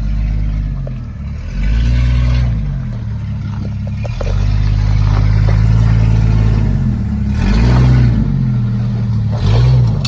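Lifted Jeep Grand Cherokee ZJ's engine revving up and dropping back several times under throttle, with a few sharp knocks in between.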